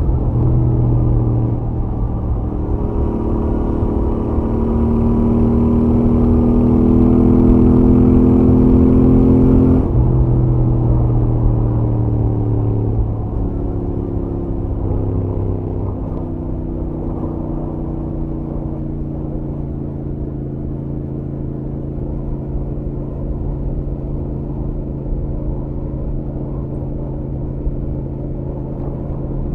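Stock Royal Enfield Interceptor 650 parallel-twin engine and exhaust on the move, pitch climbing steadily under acceleration, then dropping abruptly about ten seconds in. After two brief dips a few seconds later it settles into a steady, slightly quieter cruise, with low wind rumble underneath.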